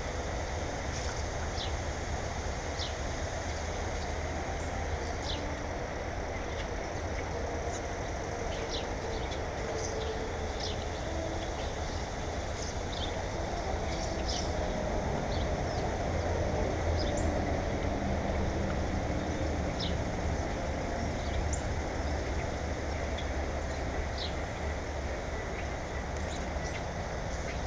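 Small birds chirping, short high calls every second or two, over a steady low rumble.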